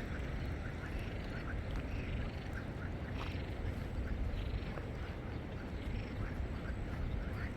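Steady low rumble of rushing floodwater and wind on the microphone, with many short, faint, high calls from an animal scattered throughout.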